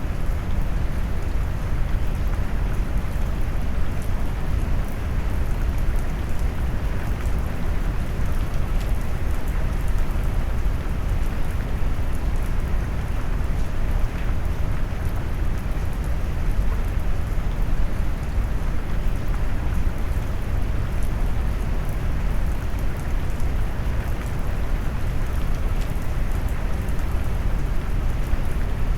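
Steady rain noise mixed with deep brown noise, the energy weighted low with a rumble, and faint patter above it.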